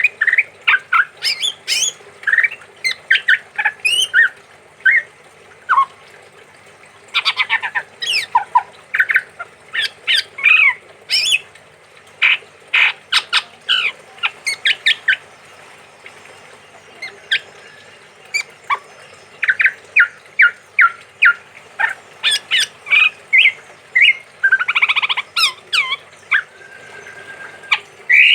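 Male chestnut-rumped babbler (tepus tunggir merah) singing lively runs of short, quick notes, pausing briefly twice before starting again.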